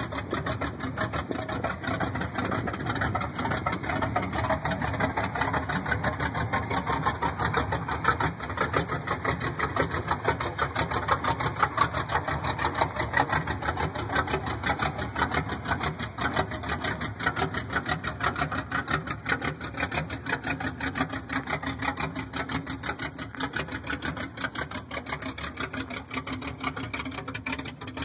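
1983 Chevrolet Camaro drag car's engine idling steadily with a rapid, even pulse, swelling a little in the middle.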